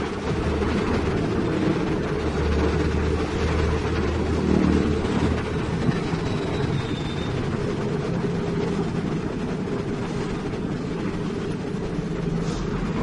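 Heavy diesel machinery running steadily, a continuous low rumble.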